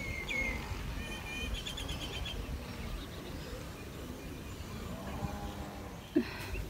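Birds chirping, with a quick rattling trill of high notes about a second and a half in, over a steady low rumble.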